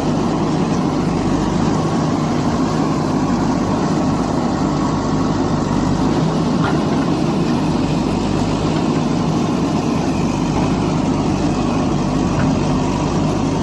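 A heavy engine idling steadily, a low and even running sound that does not change.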